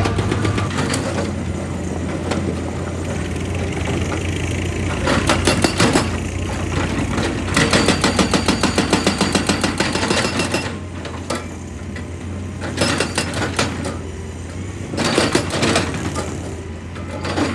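Heavy diesel machinery running steadily, broken by about five bursts of rapid repeated hammering, the longest lasting two or three seconds near the middle.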